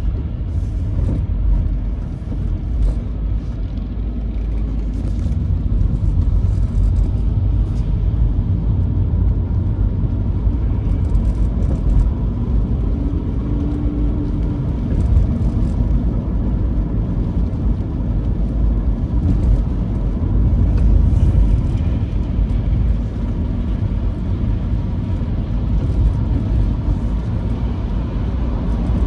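A moving vehicle, heard as a steady low rumble of engine and road noise.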